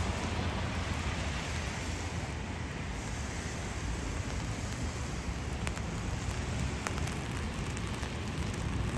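Steady rain falling on city pavement, with scattered drop taps in the second half and a low rumble of traffic underneath.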